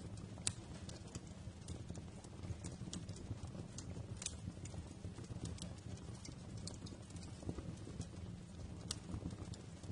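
Wood fire crackling, with irregular sharp pops over a steady low rumble of the flames. The loudest pop comes about half a second in, with others near four seconds and near nine seconds.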